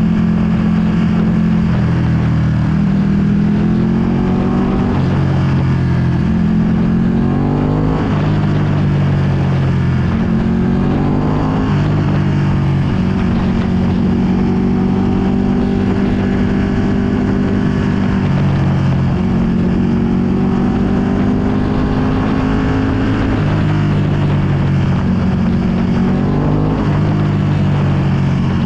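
Ducati Panigale V2's 955 cc V-twin running through a full Akrapovic exhaust while riding: the revs climb and drop back at gear changes several times, with a steadier cruising stretch in the middle. Wind noise on the microphone runs under it.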